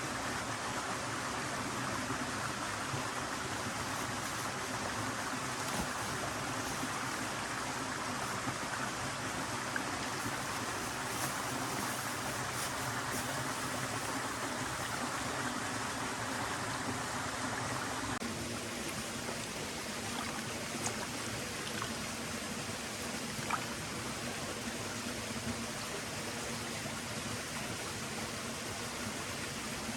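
A stream flowing, a steady even rush of water with a few faint ticks. About eighteen seconds in the rush turns abruptly softer and thinner.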